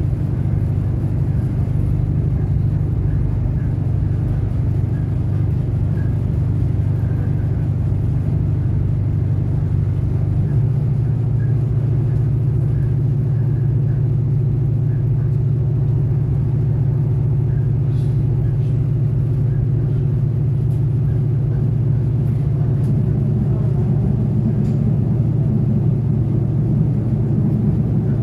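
Diesel railcar running along the track, heard from inside the carriage: a steady low rumble of engine and wheels. The drone shifts slightly about ten seconds in, and there are a couple of faint clicks.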